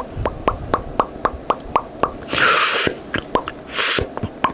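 ASMR mouth sounds made close to the microphone: a quick run of wet lip-and-tongue pops imitating bubbles popping, about four or five a second. The pops are broken twice, about halfway through and again near the end, by a short airy hiss.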